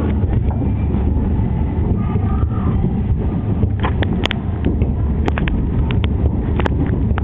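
Muffled, continuous low rumble of a dense fireworks barrage heard through window glass, with a few sharp cracks from about four seconds in.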